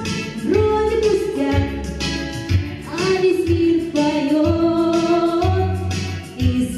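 A female voice singing a pop song over an instrumental backing with a steady beat.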